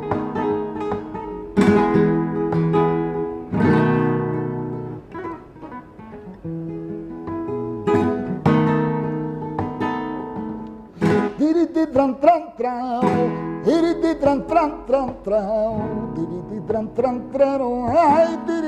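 Flamenco acoustic guitar playing strummed, ringing chords. About eleven seconds in, a singer's voice joins with a wavering, ornamented line over the guitar.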